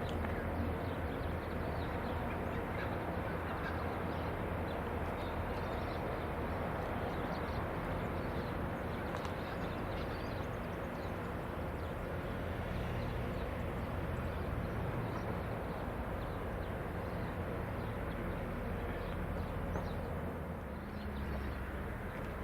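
Rail grinding train at work: a steady, unbroken noise with a low drone underneath.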